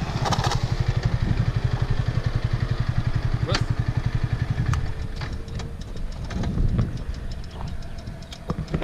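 Yamaha R15 V3's single-cylinder engine, breathing through a UNI aftermarket air filter, idling with a steady rapid throb. After about five seconds the throb drops away and gets quieter, leaving scattered ticks.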